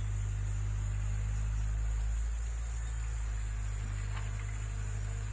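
An engine running steadily, a low drone with an even pitch, with a steady high whine above it.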